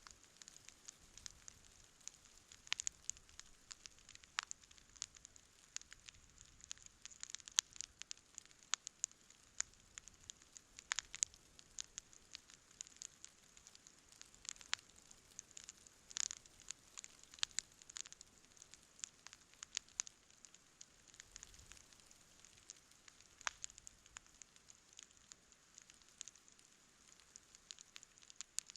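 Campfire crackling: irregular sharp pops and snaps, many a second at times, over a faint steady hiss.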